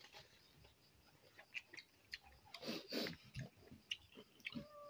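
Faint chewing and lip-smacking of people eating rice and curry with their hands from steel plates, with small wet clicks and a louder cluster of mouth noises midway. A cat meows near the end.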